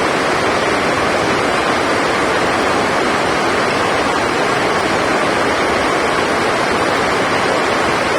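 Heavy rain drumming on a roof, a dense, steady hiss.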